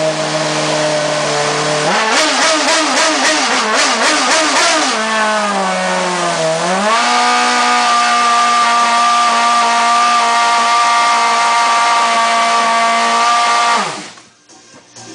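Red Bull RB7 Formula 1 car's Renault V8 engine running: it holds a steady pitch, is blipped rapidly up and down for about three seconds, drops, then holds a higher steady pitch for several seconds before it is shut off and dies away suddenly near the end.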